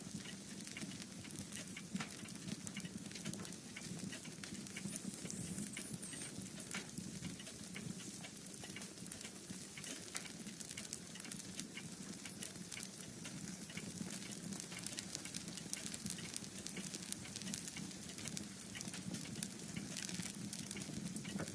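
Wood fire in a fireplace crackling, with dense irregular pops and snaps over a steady low rumble of the flames.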